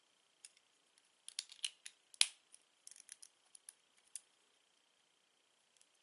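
Lego bricks being handled: a quick run of small plastic clicks and clacks, the loudest a sharp click about two seconds in, then a few lighter scattered clicks. A faint steady high whine sits underneath.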